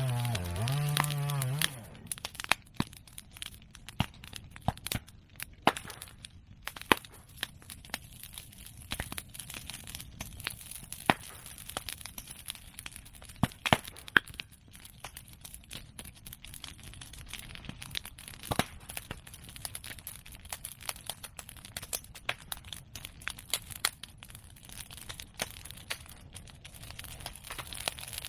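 Open bonfire of medake bamboo and chestnut prunings crackling steadily, with irregular sharp snaps and a few louder pops scattered through.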